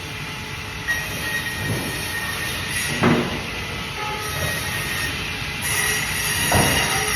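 Bandsaw running while cutting fish, a steady mechanical noise with a faint high whine, broken by three short knocks.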